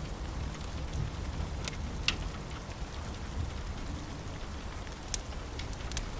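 Steady rain with a low rumble underneath, and a few sharp pops and crackles from a wood fire burning in a fireplace, scattered through.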